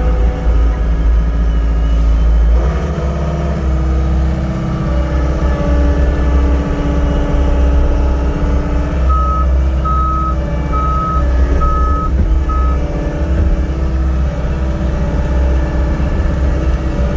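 A John Deere 324E skid steer's Yanmar 3.3 L four-cylinder diesel running steadily, its note shifting about three seconds in. Around the middle, the reverse alarm beeps five times as the machine backs up.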